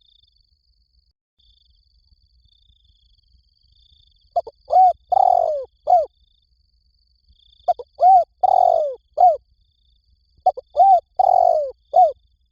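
Spotted dove cooing: three phrases about three seconds apart, starting about four seconds in, each a few short hooting notes around one longer, rougher note. It is the call used as a lure to bring wild spotted doves in.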